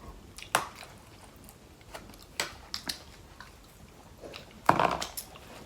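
Eating sounds of a seafood mukbang: scattered short wet clicks and smacks of chewing, with a louder sound near the end.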